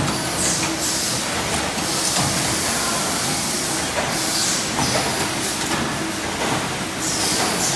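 CNC copper tube bending machine running: a steady mechanical din with scattered clicks, and a few bursts of high hiss that come and go.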